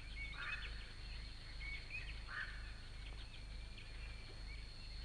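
Birds calling: a short harsh call about half a second in and again near the middle, over many brief high chirps. A steady high whine and low hum run underneath.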